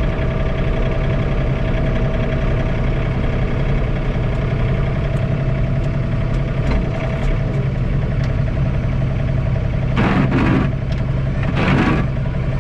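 John Deere 3046R compact tractor's diesel engine running steadily, heard from inside the closed cab as a constant low drone.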